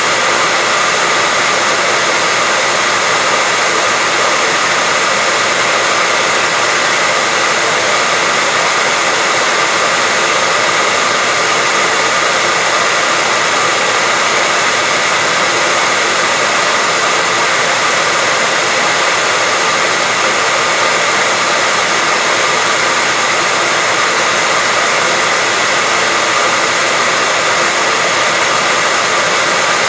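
Hair dryer running steadily: a constant, unchanging rush of fan noise with a faint steady whine.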